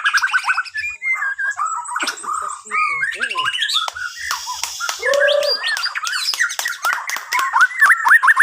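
Bornean shama (murai batu) singing a varied, rapid song of whistles, trills and slurred notes, with a lower, fuller whistle about five seconds in.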